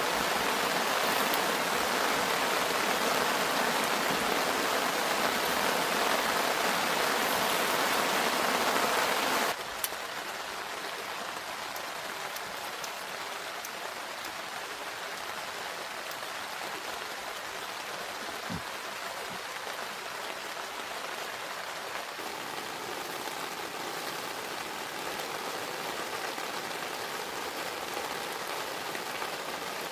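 Steady rain falling, with scattered drips tapping. About ten seconds in it drops suddenly to a quieter, softer rain.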